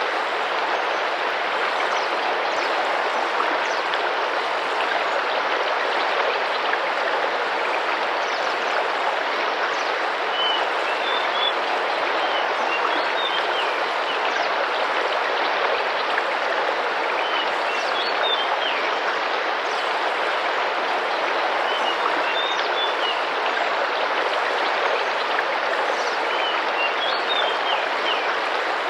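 River water running steadily. A bird repeats a short, high chirping phrase about every four to five seconds, starting about a third of the way in.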